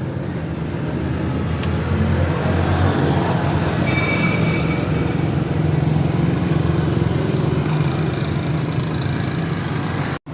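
Steady, loud mechanical rumble, low and even, dropping out for a moment just before the end.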